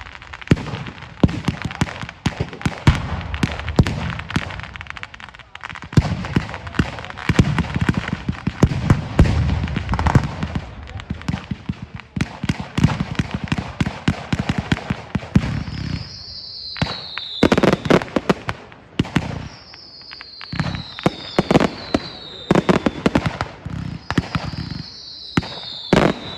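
Fireworks display: a dense run of cracks and bangs from bursting shells. From about two-thirds of the way in, several falling whistles from whistling fireworks sound among the bangs.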